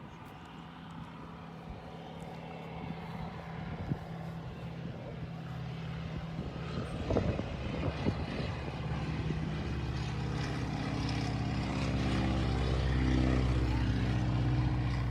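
Propeller plane's piston engine droning, growing steadily louder over the second half as the plane flies closer.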